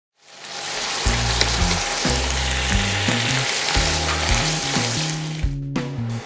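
Food sizzling as it fries in a hot pan, fading in at the start, over background music with a moving bass line. The sizzle drops out briefly near the end, then returns.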